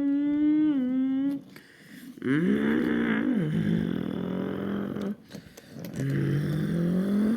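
A voice imitating monster truck engines revving: three long mouth-made vroom sounds, each gliding up and down in pitch, with short breaks about a second and a half in and about five seconds in.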